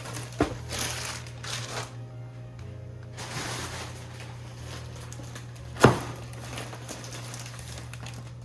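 Plastic grocery packaging crinkling as it is handled, in a few bursts, with one sharp knock about six seconds in, the loudest sound, over a steady low hum.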